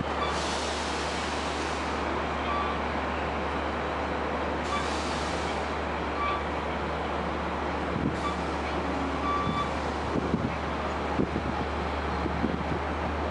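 Long Island Rail Road diesel push-pull train with a C3 bi-level cab car leading, rolling slowly into the station. It gives a low steady rumble, with several bursts of air hiss from the brakes, faint short tones every second or two, and a few knocks near the end.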